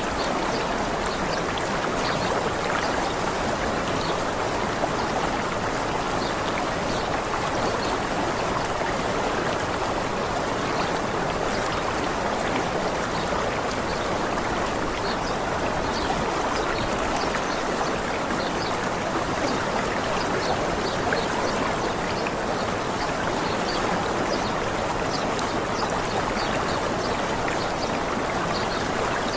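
Steady rush of running water, even and unbroken, with faint short high chirps of small birds scattered through it.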